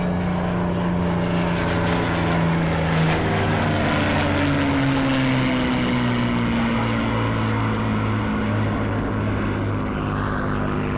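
Piston-engined propeller bomber flying past, its engines droning steadily, the pitch dropping as it passes.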